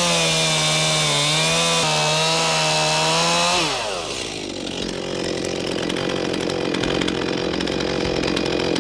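Two-stroke chainsaw running flat out with a steady high engine note. About three and a half seconds in, the revs drop sharply and the saw carries on at a lower, rougher note with a fast rattle.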